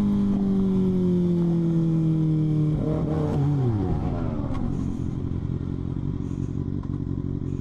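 Motorcycle engine slowing down under braking: its tone falls gently for about three seconds, then drops away quickly as the bike slows, leaving a low, steady rumble.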